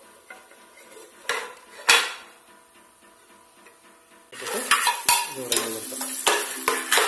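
A metal slotted spoon knocks and scrapes against a non-stick pot, with two sharp knocks in the first two seconds. About four seconds in, raisins go into hot coconut oil, which starts sizzling loudly while the spoon stirs them.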